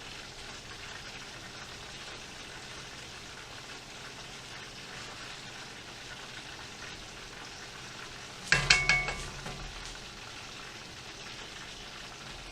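Steady sizzle of chicken frying in oil, with a brief loud clatter of metal cookware striking, ringing for a moment, about eight and a half seconds in.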